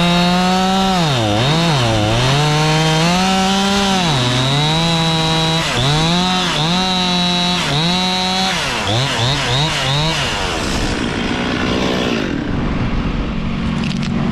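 Stihl MS 261 two-stroke chainsaw cutting wood, running at high revs with the engine note dipping repeatedly as the chain loads up in the cut and then recovering. Near 9 s there are a few quick throttle blips, and about 10.5 s in it drops back to idle.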